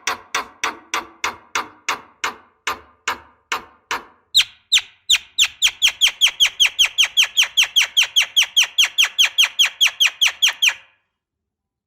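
Javan myna calling in a long run of short, harsh repeated notes, about four a second. About four seconds in it switches to a faster series of higher, falling chirps, about six a second, which stop abruptly near the end.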